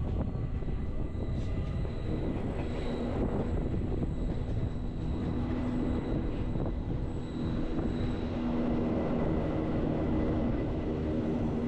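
Bernese Oberland Railway narrow-gauge electric train running, heard from on board: the steady rumble and rattle of wheels on rails, with a steady low hum joining about halfway through.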